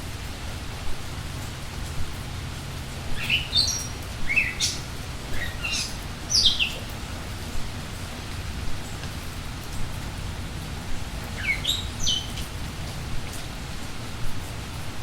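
Steady rain hiss with songbirds chirping: a cluster of quick sweeping high notes a few seconds in, and another shorter one past the middle.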